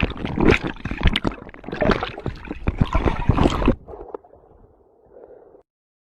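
Water splashing and sloshing close to the microphone, with many sharp knocks, which stops abruptly about four seconds in and leaves only a faint hiss.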